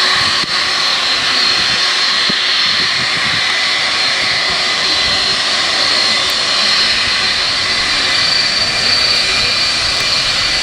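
Jet airliner engines running loud and steady, with a high whine held throughout.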